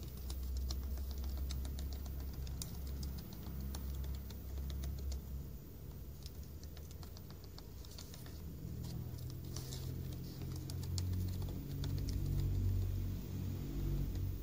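A kitten's claws scratching and clicking on the dry bark of a log: quick, irregular light ticks, over a steady low rumble.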